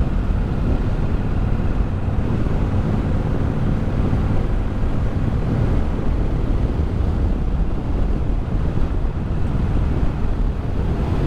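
Triumph Bobber's 1200 cc parallel-twin engine running steadily while riding, with wind rushing over the microphone.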